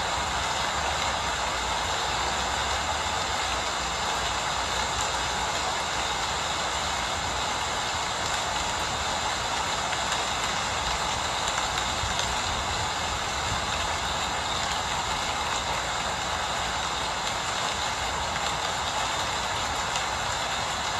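Steady rain falling, an even hiss with no breaks, over a faint low rumble.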